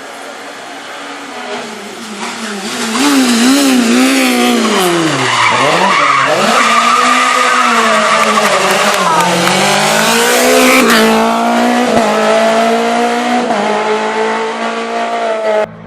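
Renault Clio rally car's four-cylinder engine coming closer and getting louder. Its revs drop sharply about five seconds in, then climb hard again in steps through the gears and stay high. The sound cuts off abruptly near the end.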